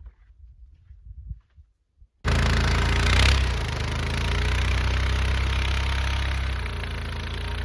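An engine running steadily. It comes in suddenly about two seconds in, after a near-quiet stretch with a few faint knocks.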